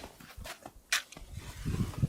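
A single short, sharp strike about a second in: an attempt to light a petrol-soaked campfire that fails to catch. A low muffled rustle follows near the end.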